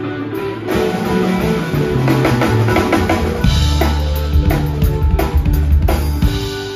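Live rock band playing. An electric guitar part is joined just under a second in by drum kit and bass guitar, and the bass and kick drum grow heavier about halfway through.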